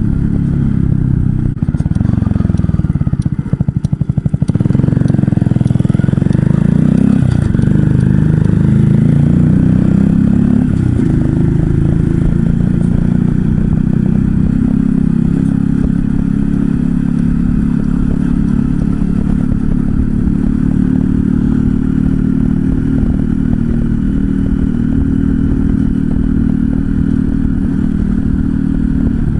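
Honda Cross Cub 110's single-cylinder four-stroke engine through a Moriwaki Short Monster full exhaust, heard while riding, with a lot of wind noise on the microphone. A few seconds in it drops to a slow, pulsing beat, then revs up over several seconds and settles into a steady cruise.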